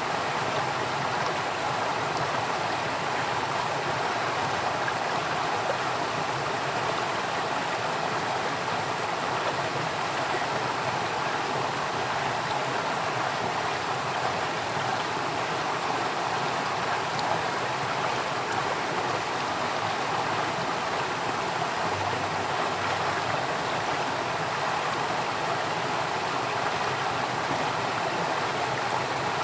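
Water flowing in a stream, a steady, even rushing and babbling.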